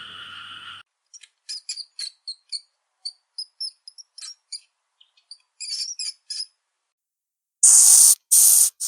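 Rainforest animal sounds: a steady two-pitched trill stops about a second in, followed by a scatter of short high chirps and clicks. Near the end come two loud hisses, each about half a second long.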